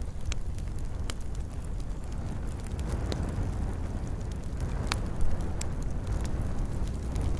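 Wood campfire burning: a steady low rumble of flames with scattered sharp crackles and pops, one louder pop about five seconds in.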